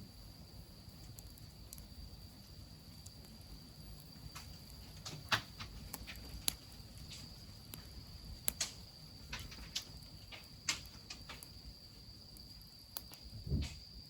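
Wood fire under an iron goemon-buro bath crackling, with irregular sharp pops, over a low steady rush. A steady high insect trill runs throughout, and a dull thump comes near the end.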